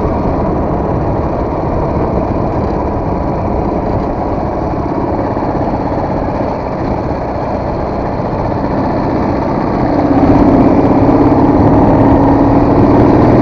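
Motorcycle engine running while riding, getting louder about ten seconds in as a stronger low engine note comes in.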